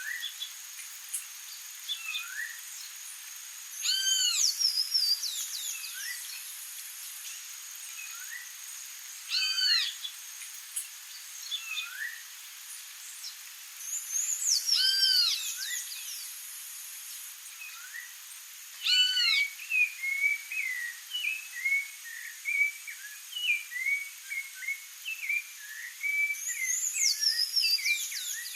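Wild songbirds calling. A clear arched call repeats about every five seconds, each time followed by a quick run of falling high notes. From about two-thirds through, a busy string of short quick notes joins in, over a steady faint high-pitched hum.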